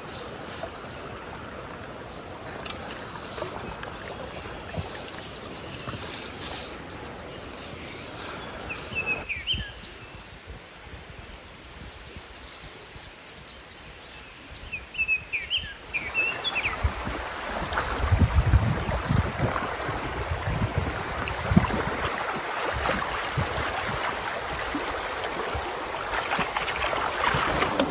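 Rushing mountain stream water, its sound shifting abruptly a couple of times, with a few short chirps and bouts of low rumbling in the second half.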